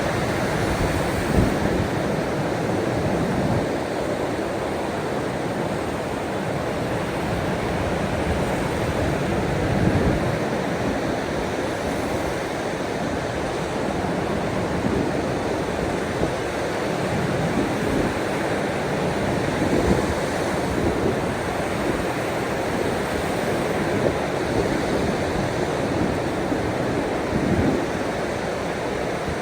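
Ocean waves washing ashore: a steady rush of surf with a few brief louder surges.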